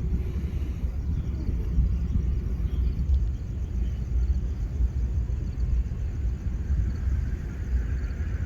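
Steady low vehicle rumble with no clear changes.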